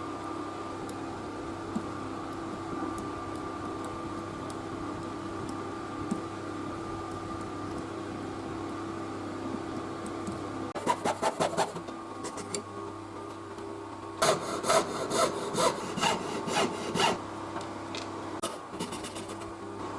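Rhythmic rasping strokes of a hand tool working material: a short quick run about halfway through, then a longer run at about two strokes a second. A steady hum with a few level tones underlies it.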